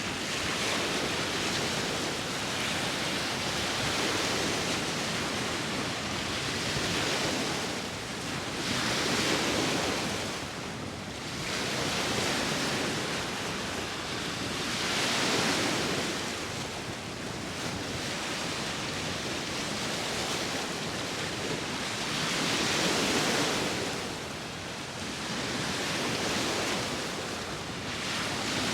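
Sea waves breaking and washing on the shore, a continuous rush that swells and eases with each wave every few seconds, with some wind.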